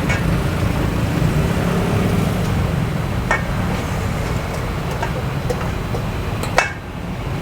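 Steady low rumble of road traffic, with a few short sharp clicks; the loudest click comes near the end.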